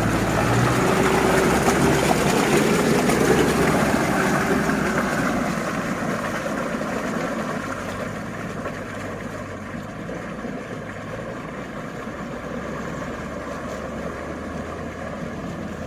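Engine of a heavily loaded 4x4 pickup truck running under load on a muddy road. It is loudest in the first few seconds and grows steadily fainter from about six seconds in.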